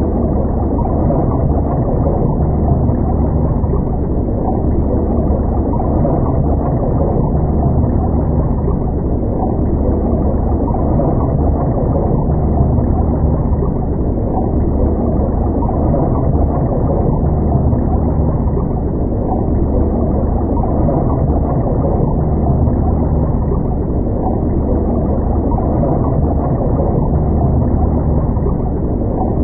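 Steady, muffled low rumble of underwater ambience, heard underwater, with a low hum that swells gently every few seconds.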